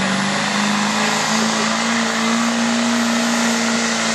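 Diesel truck engine running loud and steady in a truck pull, its pitch rising slightly about a second in and then holding.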